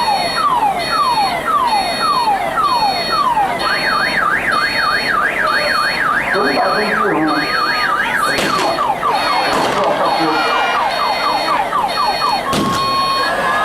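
Electronic alarm siren cycling through its tone patterns: falling chirps about twice a second, then a fast up-and-down warble, then quicker falling chirps, and a steady broken tone near the end, in the pattern of a car alarm.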